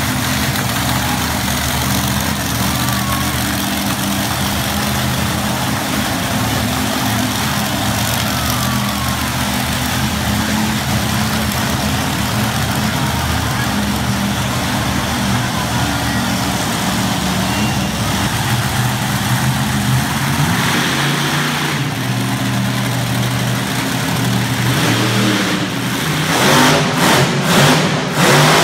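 Monster truck engine running hard and steady, then revving in quick surges near the end.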